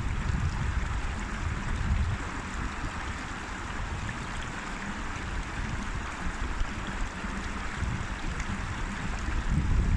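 River water flowing steadily, a continuous rushing noise, with an uneven low rumble that is heaviest near the start and near the end.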